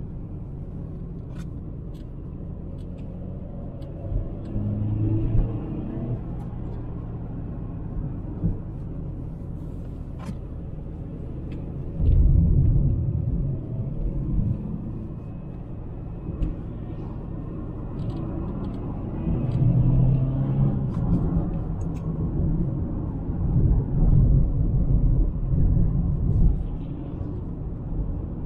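In-cabin sound of a 2003 Mercedes C200 Kompressor's supercharged 2.0-litre inline-four (M271) driving along, a low engine and road rumble with tyre noise from a wet road. It swells louder about twelve seconds in and again through the last third as the throttle is opened.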